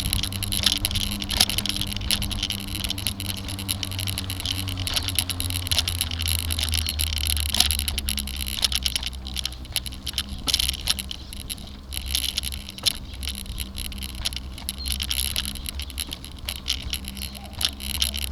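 Bicycle in motion on a paved road: a steady low rumble from the tyres and road, with frequent small rattles and clicks from the bike.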